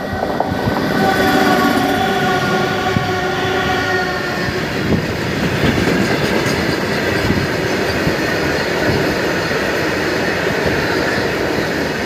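A train horn sounds for about four seconds, then the train goes by with a steady rumble and rapid clatter of wheels over rail joints.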